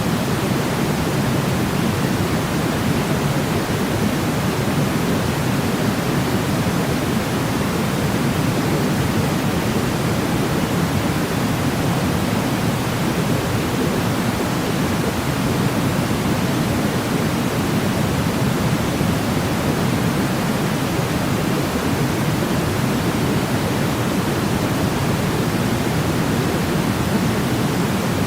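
Continuous white noise for sleep: an even, unchanging hiss with its weight toward the low end, like a deep steady rush.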